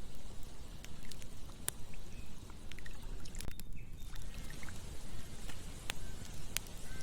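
Campfire crackling, with a few sharp single pops over a steady low rush of running water.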